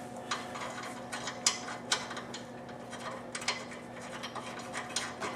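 Irregular light metallic clicks and clinks of a nut with a lock washer being spun onto a subframe bolt by hand, over a steady low background hum.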